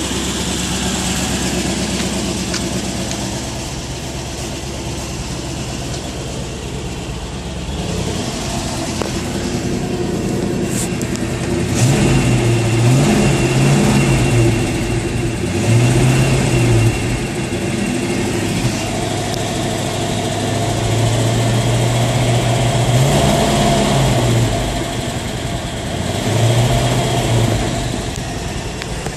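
1975 Chevrolet 4x4 truck's engine running at a steady idle, then revved up and let back down several times over the second half.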